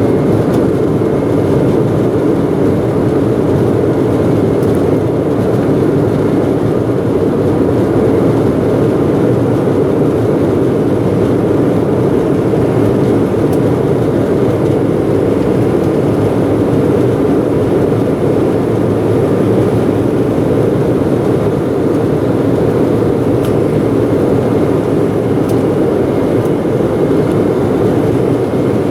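Steady roar inside the passenger cabin of an Embraer 190 airliner in flight: its General Electric CF34 turbofans and the rush of air past the fuselage, a constant low, dense noise.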